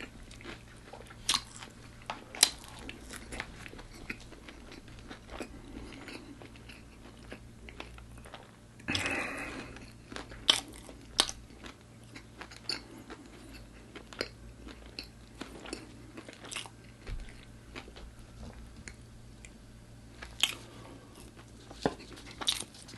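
Close-miked chewing and biting of crispy fried food, with sharp crunches scattered throughout and one longer, louder crunch about nine seconds in.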